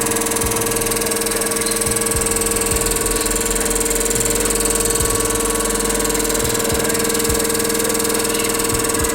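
Einhell DKS 405-1E electric scroll saw running with a steady hum.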